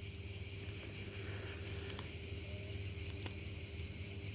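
Steady, high-pitched chorus of insects, crickets or the like, trilling without a break, over a faint low hum and a couple of faint ticks.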